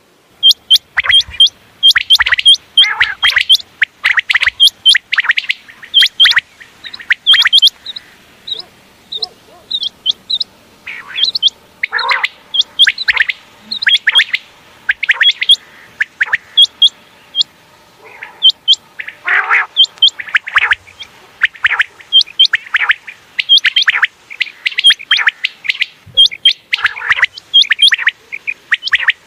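Common quail calling over and over: short, sharp high notes mixed with quick downward-sweeping calls, in dense runs with a couple of brief thinner stretches.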